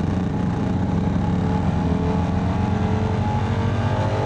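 Motorcycle engine running under way, picked up by the rider's own microphone, its pitch climbing through the last second or so as it accelerates.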